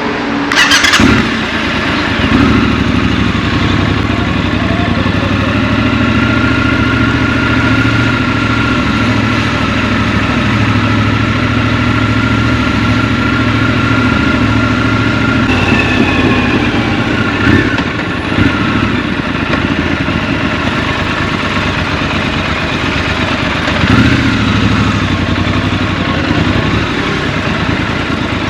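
Scrambler motorcycle engine running under way in traffic, with a sudden loud burst about a second in and the revs changing several times later on.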